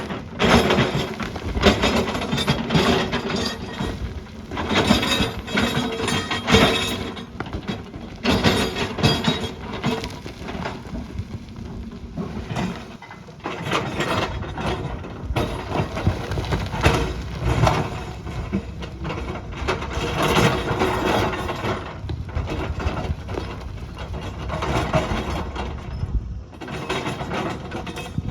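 Heavy earthmoving machinery working rock and gravel: a steady engine rumble under frequent irregular clanks, cracks and scraping of stone against steel.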